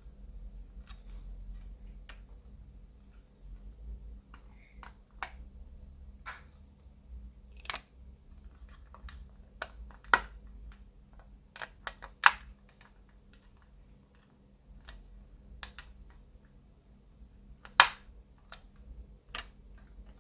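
Sharp clicks and taps of hard plastic model parts being handled and pressed together: a clear screen's locating pins being pushed into the holes of a 1:4 scale Yamaha YZR M1 model's upper fairing. The clicks are scattered, with the loudest about ten, twelve and eighteen seconds in.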